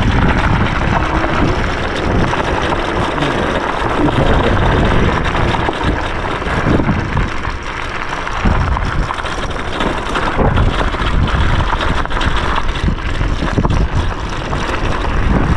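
Electric scooter riding on a dirt trail: a steady rush of wind on the microphone mixed with tyre rumble and frequent small knocks and rattles from the bumpy ground.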